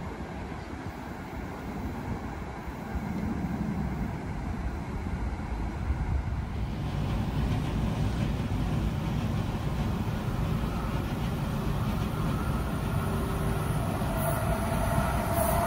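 A train approaching on the Northeast Corridor main line, its rumble and rail noise building steadily. Near the end a steady high tone comes in on top.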